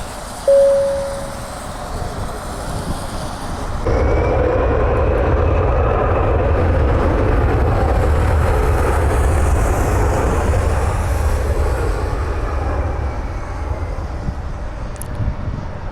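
Gulfstream business jet's engines running on the airfield, turning suddenly louder about four seconds in to a steady low rumble with a faint high whine, as for takeoff thrust. A short ringing tone sounds about half a second in.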